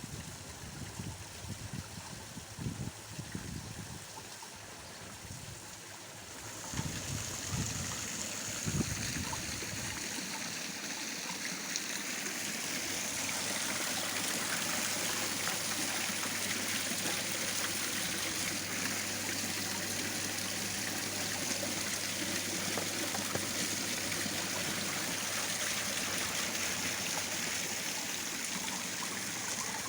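Water pouring down a stone garden waterfall into a koi pond, a steady rushing splash that grows louder about seven seconds in, with a low steady hum underneath.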